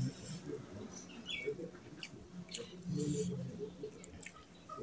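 Close-miked chewing and lip-smacking with short wet clicks, from a mouthful of fish curry and rice eaten by hand.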